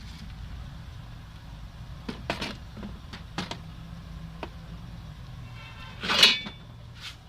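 Metal parts being handled: a series of sharp knocks and clinks, then a louder ringing metallic clang about six seconds in, over a steady low hum.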